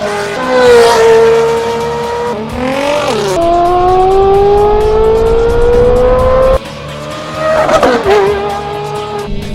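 Ferrari F430's V8 through an iPE performance exhaust, pulling hard with its pitch rising steadily. About three seconds in the pitch drops at a gear change and climbs again, and near eight seconds there is a short burst of revs.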